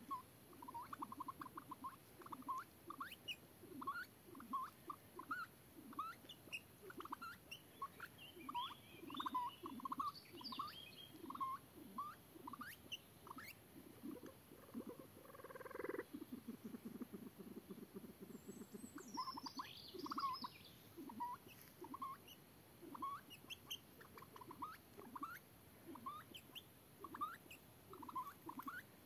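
Soft, short rising chirps repeated irregularly, one to three a second, from birds calling. A higher songbird twitter comes twice, about a third of the way in and again past halfway, and a brief louder rustling noise rises near the middle.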